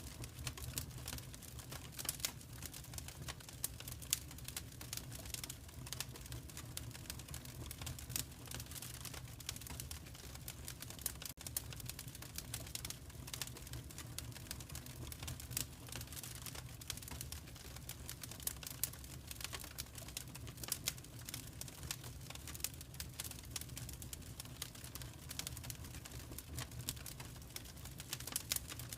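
Wood fire crackling in a fireplace: a dense stream of irregular small pops and snaps over a steady low rumble.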